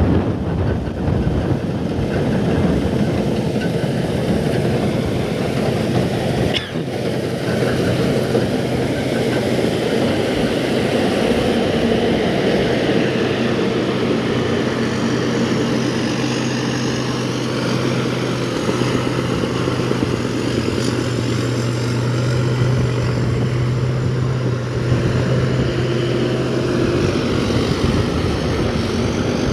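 Strong wind buffeting the microphone, over a steady low engine drone that grows stronger partway through and eases near the end.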